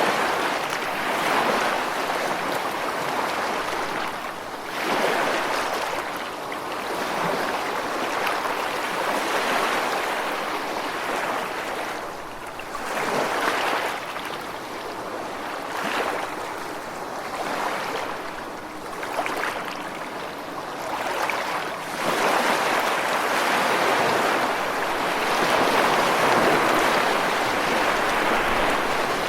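Ocean surf: a continuous rush of breaking waves that swells and eases every few seconds, with a longer, fuller surge in the last few seconds.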